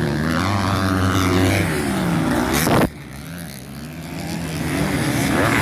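Motocross bikes racing, their engines revving up and down. About three seconds in, the sound cuts off sharply to a quieter level, then builds back up toward the end.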